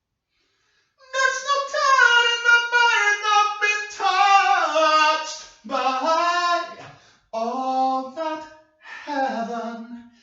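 A lone voice singing unaccompanied, beginning about a second in: slow, held notes in phrases of a few seconds, with short breath breaks and the melody falling lower toward the end.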